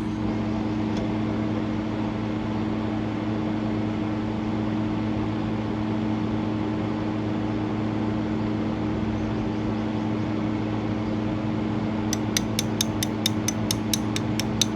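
A steady mechanical hum with a constant low drone, like an engine or motor running at an even speed. About twelve seconds in, a quick run of sharp taps starts, about four or five a second.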